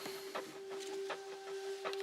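A small machine humming at one steady pitch, with several light clicks and ticks scattered over it.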